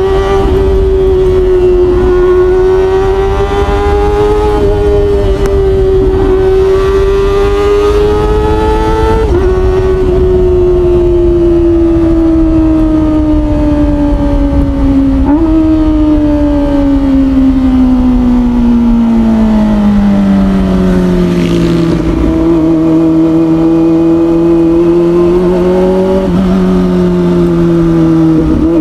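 Kawasaki ZX25R's 249 cc inline-four engine through an Orion aftermarket exhaust, ridden at high revs with a steady high-pitched wail over wind rush. The pitch jumps up sharply about 9 and 15 seconds in, then sinks steadily as the bike slows, settling at a lower steady note for the last several seconds.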